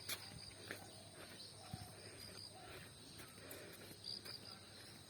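Faint outdoor morning ambience: insects keep up a steady high-pitched drone, with scattered small chirps and a single click right at the start.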